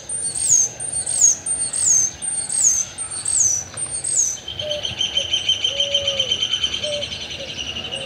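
Birds calling: a high call that drops in pitch, repeated about every 0.8 s, gives way about halfway through to a steady high trill, with short low notes from another bird underneath.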